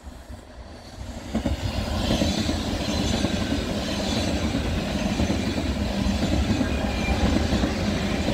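DB ICE electric high-speed train passing close by. The rolling noise of wheels on rail swells about a second in, then stays loud and steady as the carriages go by.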